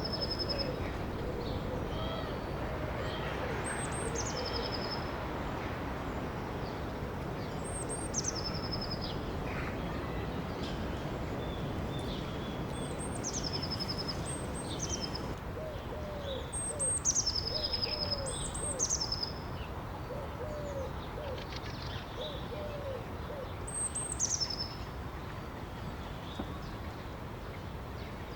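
Birds calling over steadily running water. One bird repeats a high two-part whistle, a short high note dropping to a lower held note, every few seconds. Short low cooing notes come in quick runs in the second half.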